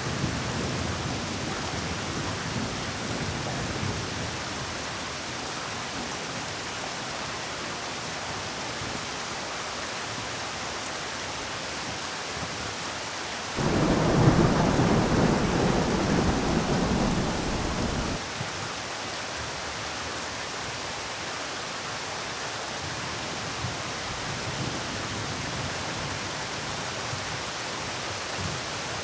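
Steady rain falling, with a sudden loud roll of thunder about halfway through that rumbles for several seconds and fades back into the rain.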